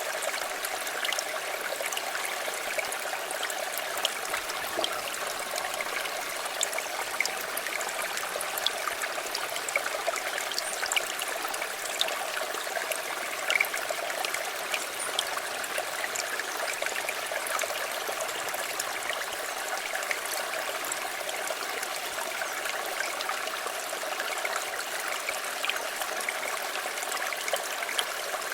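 River water flowing steadily, a constant rush dotted with many small splashes and bubbling ticks.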